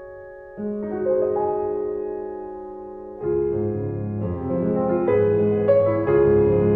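Background piano music: held notes and chords that thicken and grow louder from about three seconds in.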